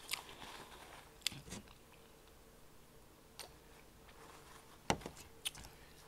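Quiet, close-miked chewing with a few short, sharp mouth clicks, and one louder knock about five seconds in.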